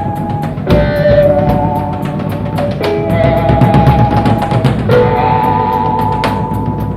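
Live blues-rock band playing an instrumental jam: electric guitar holding long, wavering lead notes over a steady rock drum beat, from a soundboard recording.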